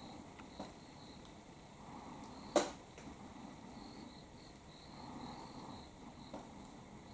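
Autumn crickets chirping in a steady run of short, high, evenly repeated chirps. A single sharp click about two and a half seconds in stands out, with two fainter ticks before and after.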